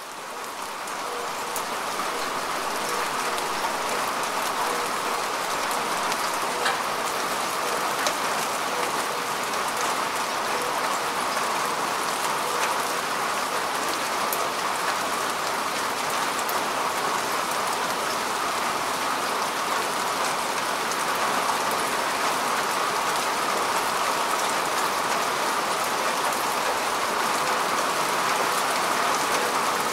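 Steady rain falling on grass and earth: a dense, even hiss with scattered drop ticks. It fades in over the first couple of seconds, then holds steady.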